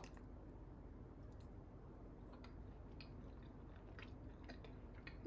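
Faint chewing of a mouthful of pasta, with a few small soft clicks over a low steady room hum.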